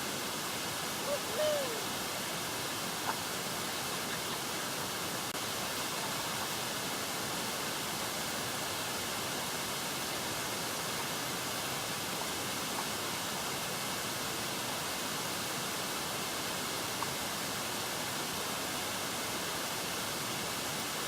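Steady, even rushing noise of open water, with a few faint ticks and one brief squeak about a second and a half in.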